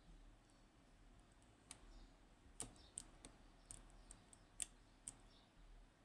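Lock pick working the pins inside a Yanai R 2200M high-pin-count lock: about nine small, sharp metallic clicks, scattered between about two and five seconds in, against near silence.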